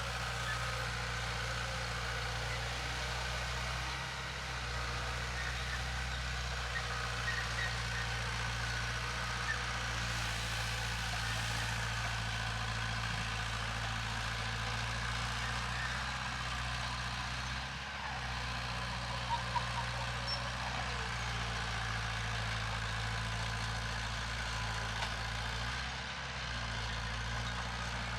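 Heavy diesel construction machinery, a bulldozer or dump truck engine, running steadily with a constant low hum and a few faint clicks.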